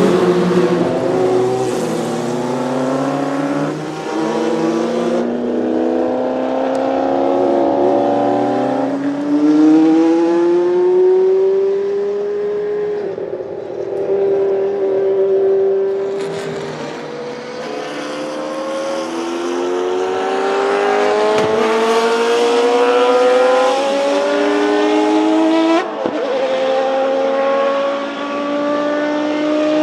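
Historic Group C prototype race cars passing one after another at racing speed. Their engines climb steadily in pitch, then drop sharply at each upshift.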